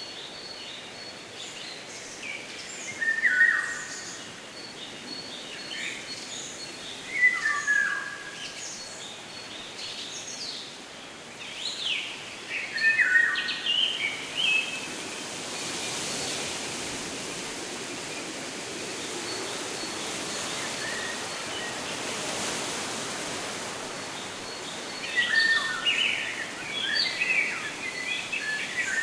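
Wild birds singing outdoors, one repeating a short descending song phrase every few seconds, with more birds chirping together near the end. A steady background hiss swells into a rushing noise in the middle.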